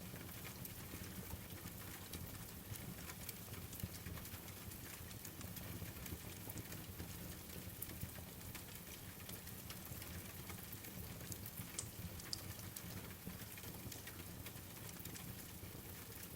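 Steady rain mixed with a crackling wood fire: an even hiss with a low rumble underneath and scattered small sharp pops and clicks throughout.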